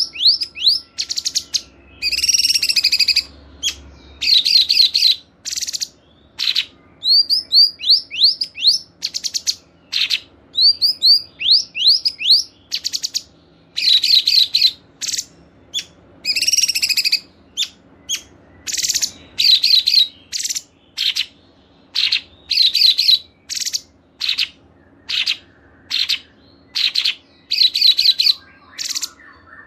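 Small songbirds singing loud, clear song in short separate phrases: rapid high chirps, trills and quick falling whistled notes, a new phrase every second or so with brief pauses between. It is a masteran tutor track of the kind played to train caged songbirds, mixing cungkok, cikris, canary, katem and lovebird song.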